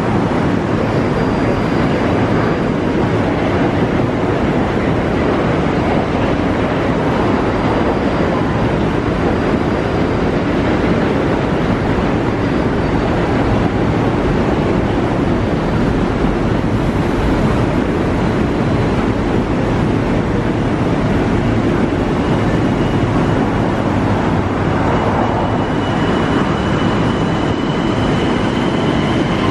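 Kawasaki M9 electric multiple-unit commuter train standing at a platform with a loud, steady hum from its onboard equipment. It starts to pull out in the last several seconds, and a thin whine joins in.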